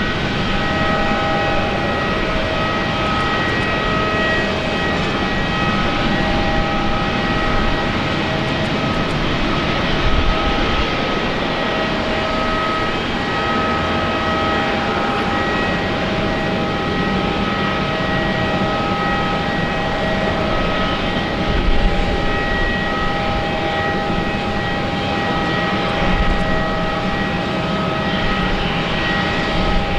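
Airbus A350's Rolls-Royce Trent XWB turbofan jet engines running steadily: an even roar with several high whining tones that fade in and out.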